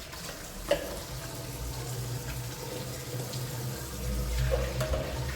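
Water running steadily, with one sharp knock about two-thirds of a second in.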